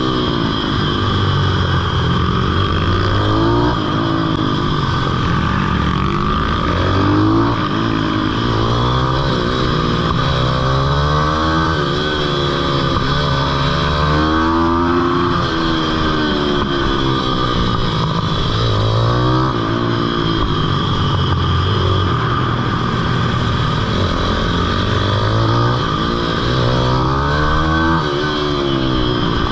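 Pit bike's small single-cylinder engine at full effort, its pitch climbing under acceleration and dropping back every few seconds as the rider brakes and shifts for the corners, over and over.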